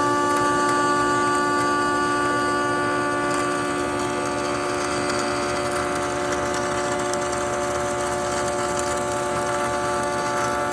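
CNC machine cutting a plate: the spindle runs with a steady whine of several held tones over a constant hiss of cutting noise.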